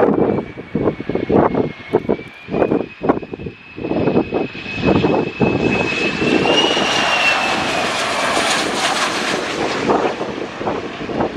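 Airliner passing low overhead on its landing approach: a high engine whine and rushing noise swell over several seconds, and the whine drops in pitch as it goes by. Gusts of wind buffet the microphone.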